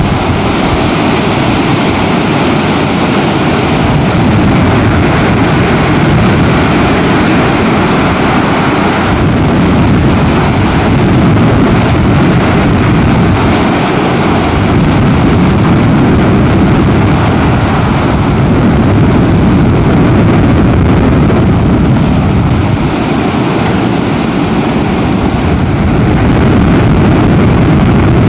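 Very strong storm wind buffeting a nest camera's microphone: a loud, continuous low rushing noise that swells and eases with the gusts.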